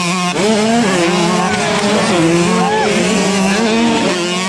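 Several motocross bike engines racing together, their revs rising and falling as the riders accelerate and shift.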